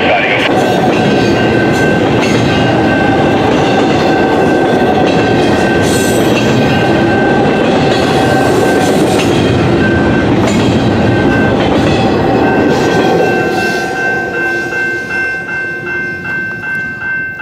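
A long CP intermodal freight train running through at speed, its wheels rumbling and clacking over the rail with steady high-pitched squeal tones. Over the last few seconds the noise falls away into evenly spaced clacks as the last cars pass.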